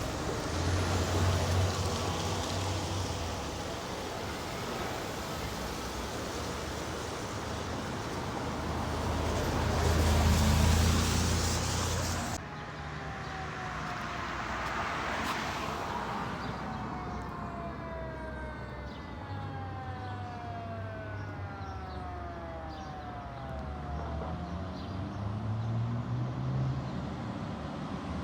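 Fire truck engine passing with steady road noise, loudest about ten seconds in. After an abrupt change, a siren's wail slides slowly down in pitch for several seconds, and near the end an engine revs up.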